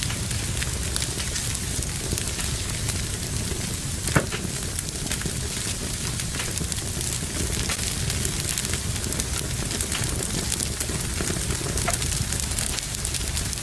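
Fire burning in a fireplace, crackling steadily with many small ticks and one louder pop about four seconds in.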